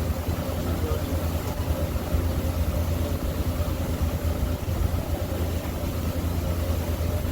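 Ferry boat's engine running steadily under way, a low hum under a steady rushing noise.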